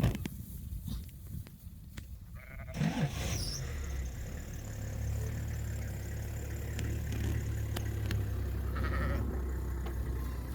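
Sheep bleating, with a steady low rumble setting in about three seconds in.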